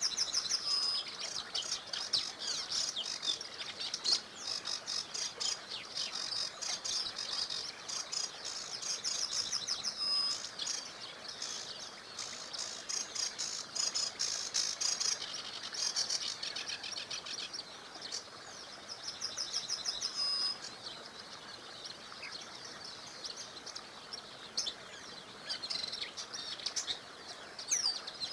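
Several songbirds singing, with rapid repeated trills and chirps that come every second or two and thin out somewhat past the middle. Beneath them runs a steady soft rush of a small river.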